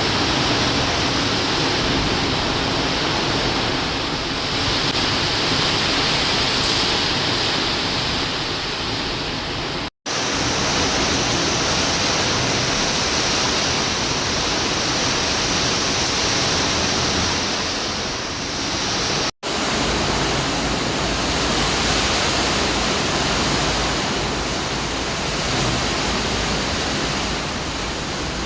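Heavy storm rain pouring down as a loud, steady rushing hiss. It cuts out for an instant twice.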